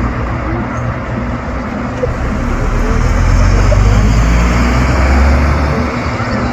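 Tractor engines running as tractors drive past. A deep engine note swells about three seconds in and eases off near the end, as one passes close by.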